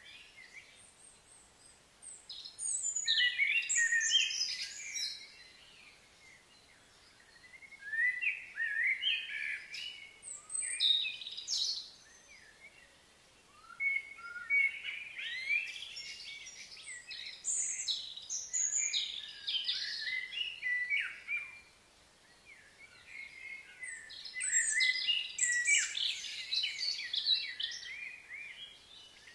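Small songbirds chirping and twittering in four bouts of a few seconds each, with short quiet pauses between.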